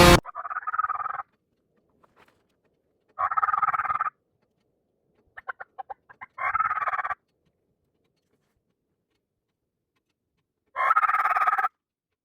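Wild turkey gobbling four times, each gobble about a second long, with a quick run of short clucks between the second and third.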